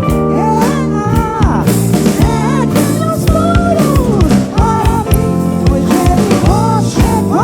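A live soul band playing: a sung melody line gliding over drums, bass and chords, with regular drum hits.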